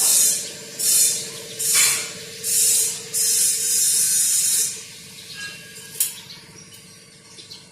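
A hissing jet of spray or air let out in four short blasts about a second apart, then one longer blast of about a second and a half, with a single sharp click about six seconds in. A faint steady hum runs underneath.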